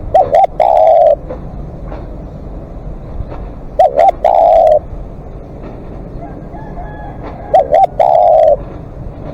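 Spotted dove cooing loudly, three calls about four seconds apart, each two short coos followed by a longer one.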